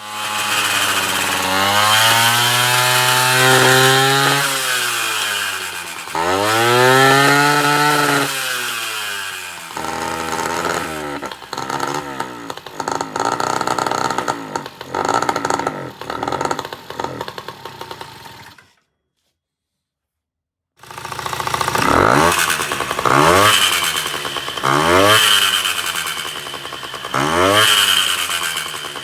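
Honda Dio two-stroke scooter engine revved up and let fall repeatedly, screaming and chattering under throttle. A break of about two seconds in the middle, then short throttle blips about every second and a half. The chatter is the sign of a loose piston, which the owner found moving every way once the cylinder was off.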